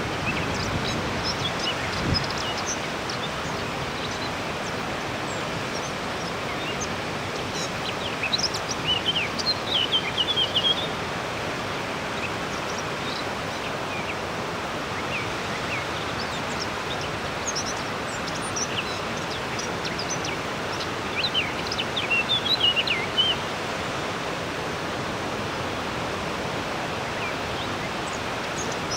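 European robin singing two phrases of high, thin, warbling song, about eight seconds in and again about twenty-one seconds in, with a few faint notes between, over the steady rush of a river.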